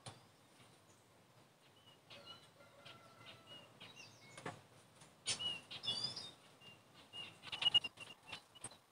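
Faint small birds chirping and tweeting, short high calls repeated throughout, with a few sliding calls about four and six seconds in. A few soft clicks and rustles come from hands handling the potted peperomia's stems.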